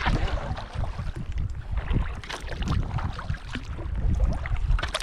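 Kayak paddle strokes splashing and dripping in the water, with wind buffeting the microphone in an uneven low rumble.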